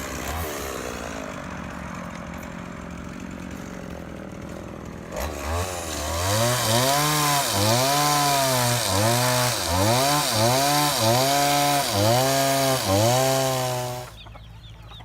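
Two-stroke chainsaw running at low speed. About five seconds in it goes to full throttle and cuts wood, its pitch dipping and recovering about once a second as the chain bites. It drops away near the end.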